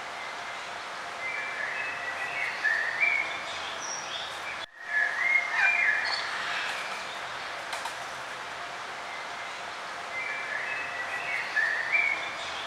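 Songbirds singing in short chirping phrases over a steady background hiss of outdoor ambience. The sound briefly drops out about a third of the way in, like a splice in the recording.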